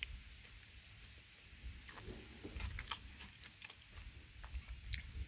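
Faint cricket chirping: a steady, even pulse of short, high chirps, with a few soft clicks and rustles.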